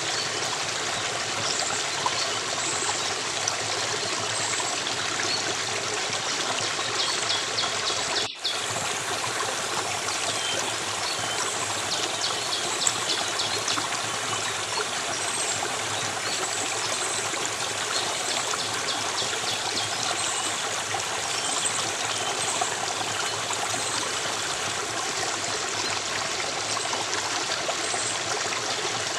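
Stream water running steadily, with faint high chirps over it. The sound briefly dips about eight seconds in.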